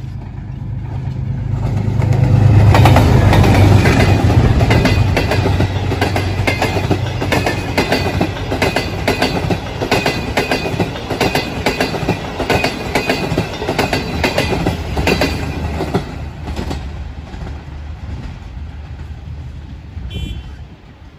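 A Pakistan Railways GEU diesel-electric locomotive passes close by with a low engine drone, loudest a few seconds in. Its passenger coaches follow with a steady clickety-clack of wheels over the rail joints, fading as the train draws away.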